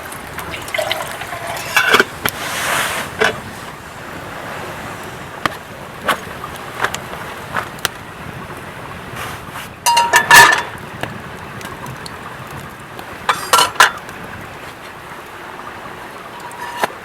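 Scattered clinks and knocks of metal camp cookware being handled over a steady background hiss, with a cluster of ringing clinks about ten seconds in and another shortly before the end.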